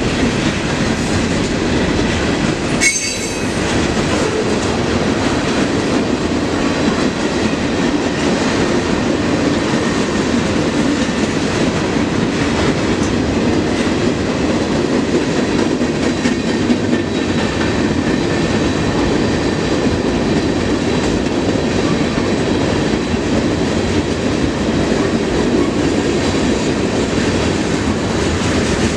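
Freight train cars rolling steadily past, wheels running over the rails with faint high squeal from the wheels. A sharp click about three seconds in.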